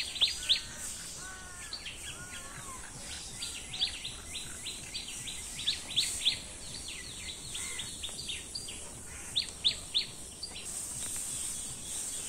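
Birds calling: quick runs of short, high, down-slurred chirps repeated again and again, with a few lower arched whistles in the first seconds, over a steady high hiss.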